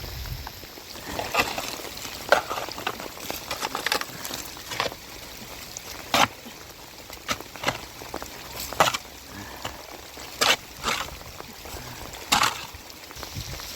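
Rain falling steadily, with large drops striking a hard surface in irregular sharp taps over a constant wash of water.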